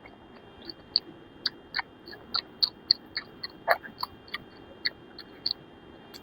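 Close-up chewing with wet mouth smacks and clicks, several a second, while eating rice with curries. A faint steady high whine runs underneath.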